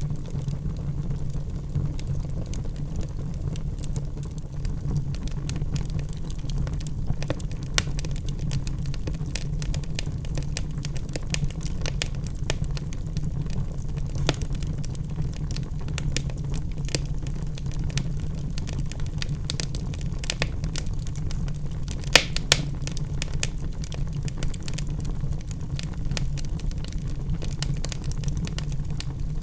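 Wood logs burning in a fireplace: a steady low rumble of the fire with frequent sharp crackles and pops, two louder pops about three quarters of the way through.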